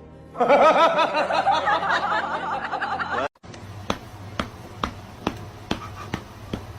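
A high voice laughing or cackling with quickly wavering pitch for about three seconds, cut off abruptly. It is followed by a series of sharp clicks or taps over a low hum.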